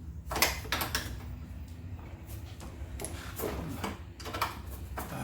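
Hand tools working on metal: a few separate knocks and clinks with short scraping strokes, over a steady low hum.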